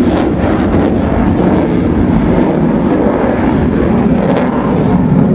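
Loud, steady jet noise from the F-35C Lightning II's single F135 afterburning turbofan engine as it flies its demonstration.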